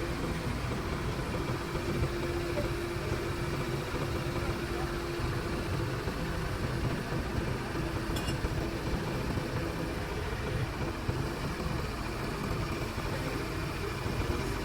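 Truck engine running steadily at idle.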